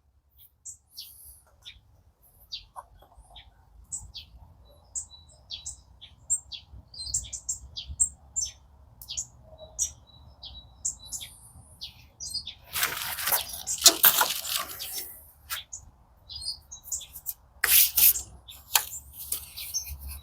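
Small birds chirping in short scattered calls, with a couple of louder bursts of rushing noise about two-thirds of the way in and again near the end.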